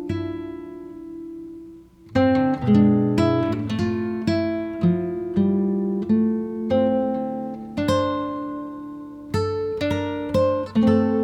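Acoustic guitar music: one held note fades over the first two seconds, then a steady run of plucked notes and chords.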